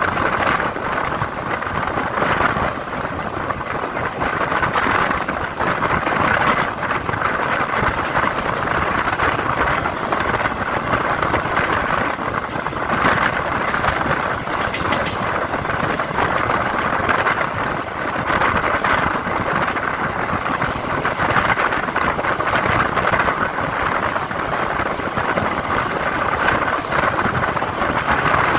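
EMU suburban electric train running at speed: a steady rumble of wheels on rail with a knock over a rail joint now and then, and wind rushing past the open doorway.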